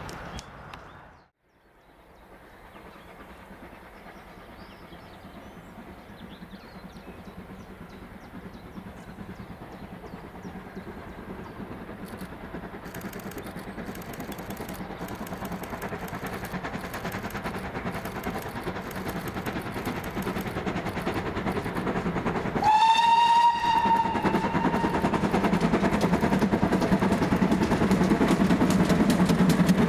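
GWR 2884 class 2-8-0 steam locomotive No. 3850 approaching, its sound growing steadily louder. About 23 seconds in it gives one short blast on its steam whistle.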